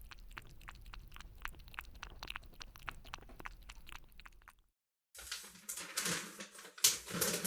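A cat lapping water from a bowl: quick, even little clicks, about five a second. After a brief cut, a louder dry rattling comes in near the end, like dry cat food being shaken.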